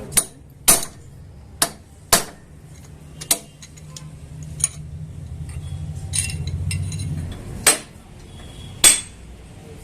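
About eight sharp metallic knocks at irregular intervals, each with a short ring, and a low steady hum that rises and runs from about three seconds in until about seven seconds in.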